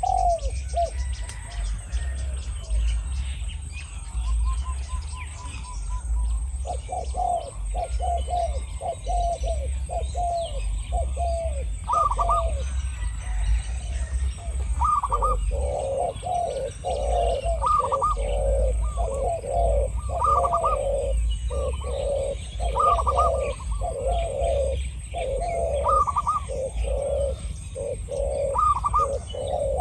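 Spotted doves cooing in quick repeated phrases, a decoy dove and a wild dove calling against each other; the coos thicken into near-continuous runs from about six seconds in. A steady low rumble sits underneath.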